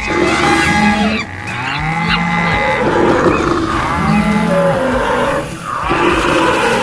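Stampede sound effect: a dense mix of animal calls with cattle mooing loudest. A low moo comes about every one and a half to two seconds, over many higher overlapping calls.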